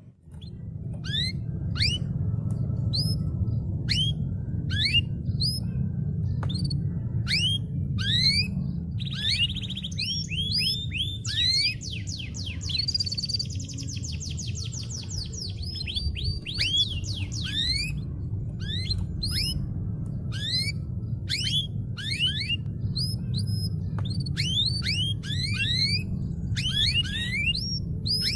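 Domestic canary in full song: a long run of quick rising chirps, broken from about nine to sixteen seconds in by a fast rattling trill, over a steady low hum.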